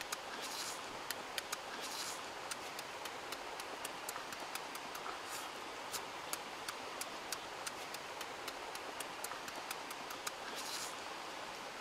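Chewing sounds of someone eating with his mouth full: irregular small wet clicks and smacks, with a few short crunches of raw leafy greens.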